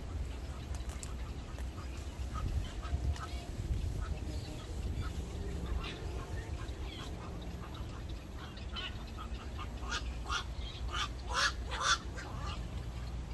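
Birds calling: short calls scattered throughout, with a run of louder calls about ten seconds in, over a steady low rumble.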